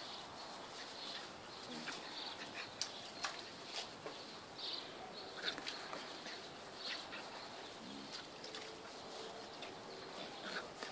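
Birds chirping: short high calls repeating every second or so, with a few sharp clicks.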